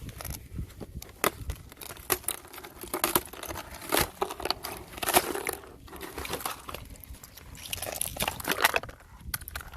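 Thin fresh ice being crushed, crunching and cracking in a dense, irregular run of sharp snaps.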